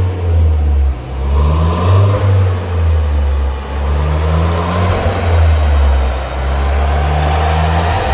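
Renault Clio 1.6 turbo Trophy's turbocharged four-cylinder engine, running a Stage 1 crackles-and-flames map, revved three times in rising pulls, with one sharp exhaust pop about five seconds in.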